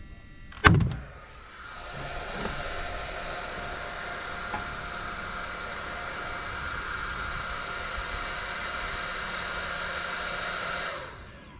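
A single sharp bang, then a steady mechanical whirring hum that starts a moment later and cuts off suddenly near the end.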